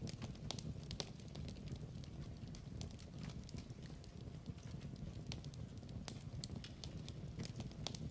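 Log fire crackling: a steady low rumble of flames with scattered sharp pops and snaps.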